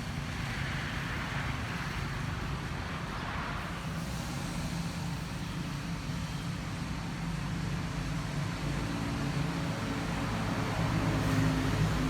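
Steady road traffic noise: a continuous wash of passing vehicles with a low engine hum, growing a little louder near the end.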